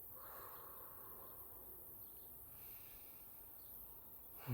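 Quiet outdoor ambience with faint insect chirping.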